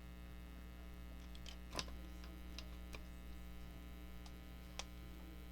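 Steady low electrical hum, with a few faint clicks, the clearest about two seconds in and near the end.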